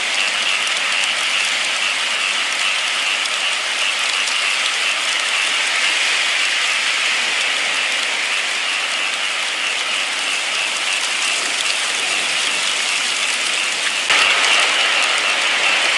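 Steady rain falling, an even hiss of many drops with no let-up, stepping up a little in loudness near the end.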